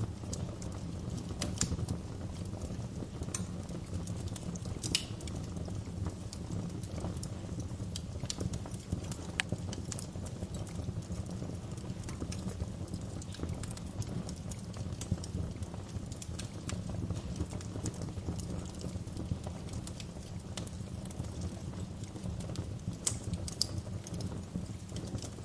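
Wood fire crackling steadily over a low rumble, with irregular sharp pops and snaps, a few louder ones scattered through.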